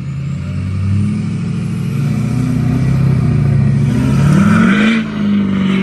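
Vehicle engine running steadily, its pitch drifting slightly up and down with the throttle, with a burst of road or tyre noise about four seconds in.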